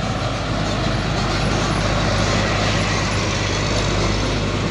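Heavy truck's diesel engine running steadily under load on a steep climb: a loud, even low drone under a wide noise of engine and road.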